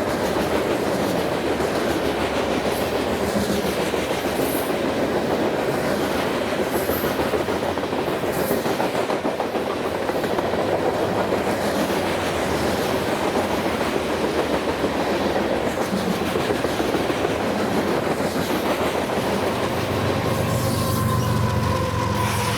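Freight cars rolling past, their wheels clicking over the rail joints in a steady clickety-clack. Near the end a thin steady whine and a deeper hum come in.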